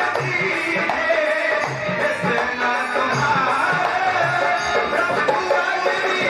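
Indian devotional music: tabla playing a rhythmic pattern under a melody.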